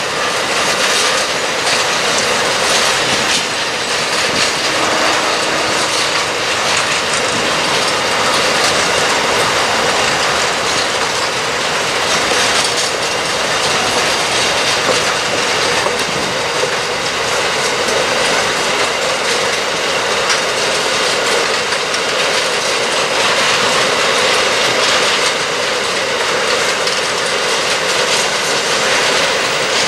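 Intermodal container train's loaded container wagons rolling past: a steady, continuous noise of steel wheels on the rails, with scattered light clicks as the wheels run over the track.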